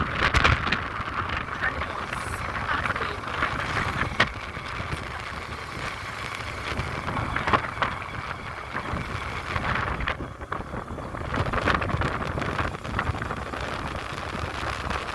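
Wind buffeting the microphone over the low rumble of a vehicle travelling along a road, with a few sharp knocks.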